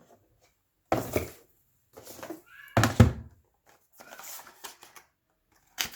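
Knocks and scuffs of cardboard packaging being handled as items are taken out of a tablet's box, loudest about a second in and about three seconds in, with a brief squeak-like tone between them.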